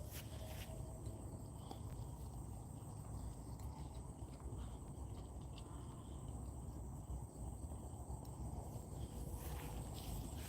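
Faint outdoor ambience: a steady high-pitched insect trill over a low rumble, with a few faint ticks.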